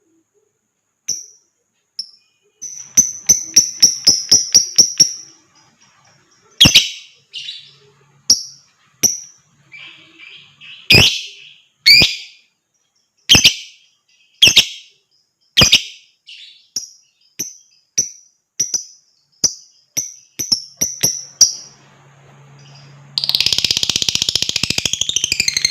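Lovebird calling: sharp, high chirps repeated about once a second, with a quick run of chirps about three seconds in. Near the end it breaks into a fast, continuous chattering trill, the long 'ngekek' of a lovebird in full song.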